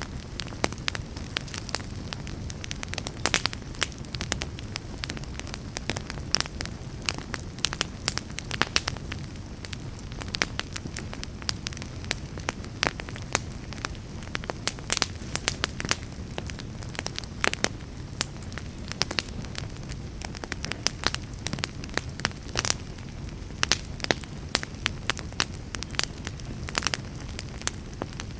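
Wood logs burning in a fireplace, crackling and popping irregularly over a steady low rumble of the flames.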